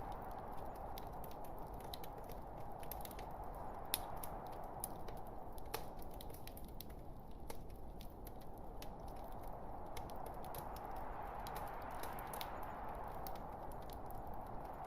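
Log fire burning in a fireplace: a steady soft hiss with scattered crackles and small pops, one sharper pop about four seconds in and another near six seconds.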